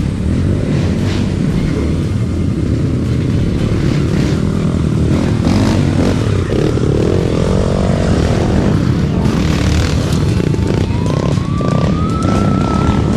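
Motorcycle engine running with a dense low rumble, its pitch rising over the last few seconds as it accelerates.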